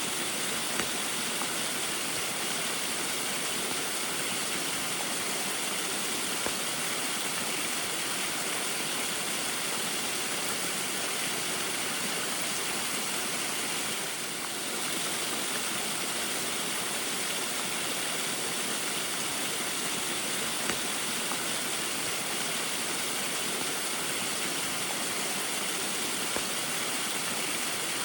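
Small waterfall splashing steadily in the rain: an even rush of falling water that dips briefly about halfway.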